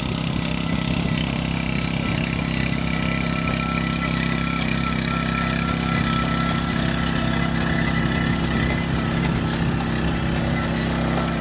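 Kubota tractor's diesel engine running steadily at an even speed.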